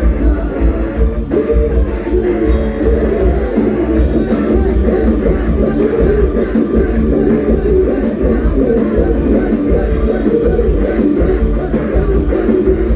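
Loud amplified band music from a Thai rot hae music-procession truck: a plucked lead line over heavy pulsing bass and drums.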